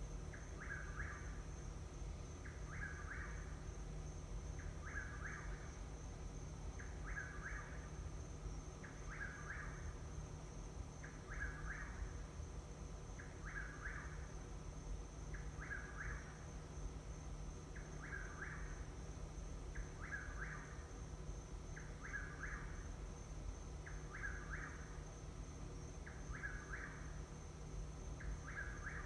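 A bird calling at night: one short call repeated steadily about every two seconds, over and over, with a faint constant high-pitched trill in the background.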